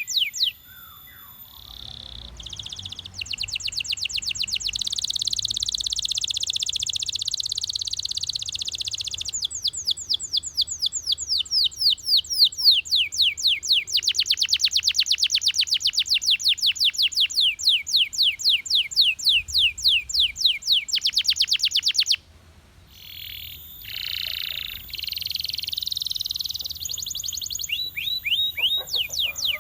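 Belgian canary singing: long trills of rapidly repeated, quickly sweeping high notes, phrase after phrase at changing speeds, with a short pause about two-thirds of the way through.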